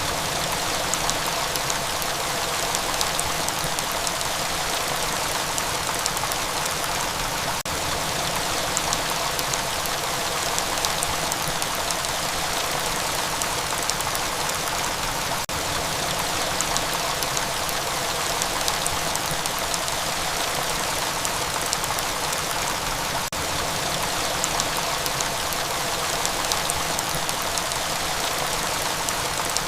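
Steady rain: an even hiss with scattered drops ticking through it.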